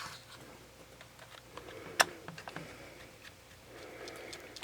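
Faint scattered clicks and ticks of a precision screwdriver driving a small screw into a camera body, with one sharper click about two seconds in.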